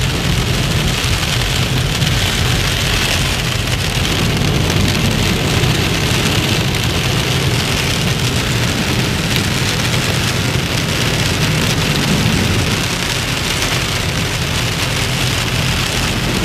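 Torrential rain pouring steadily onto a car, heard from inside the moving car's cabin, over the low steady hum of the car running on the wet road.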